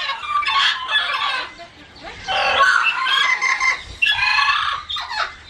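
Birds squawking and chattering in loud, busy spells: one from the start to about a second and a half in, a longer one from about two seconds in, and a short burst just after four seconds.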